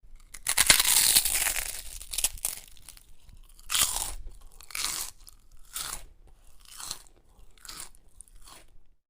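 Crunching sound effect: one long crunch, then about six shorter crunches roughly a second apart, growing weaker.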